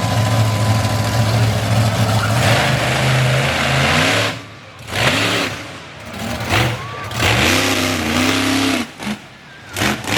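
Monster truck engine running loud and steady, then revved up and down repeatedly from about four seconds in, the throttle snapping shut between revs.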